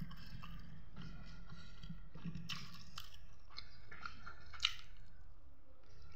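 Chewing and mouth sounds of a person eating chicken curry and rice by hand, with a few sharp clicks, the loudest about four and a half seconds in.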